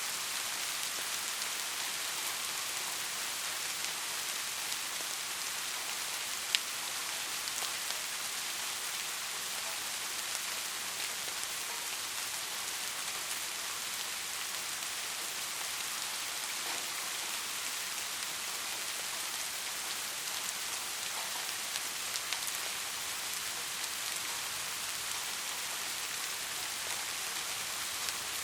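Steady rain falling, an even hiss with scattered individual drop ticks and one sharper drop click about six and a half seconds in.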